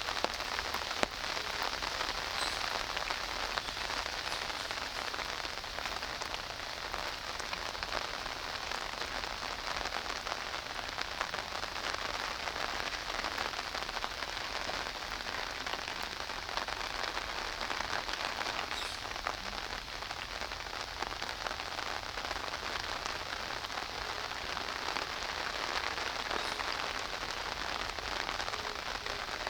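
Steady rain falling, a dense, even hiss made of many small drop impacts.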